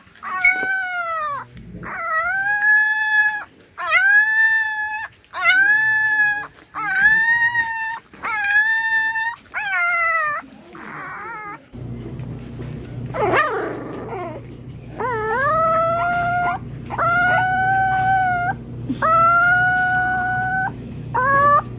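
A dog giving a series of high-pitched, drawn-out howling cries, about a dozen of them, each about a second long. After a short pause a little past halfway, the cries go on over a steady low hum.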